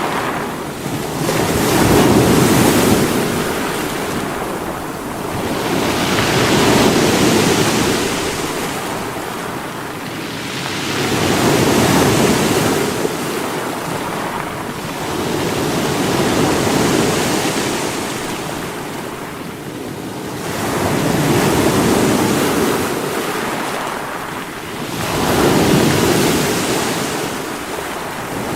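Sea waves breaking against rocks, a continuous rushing wash that swells and ebbs about every four to five seconds as each wave comes in.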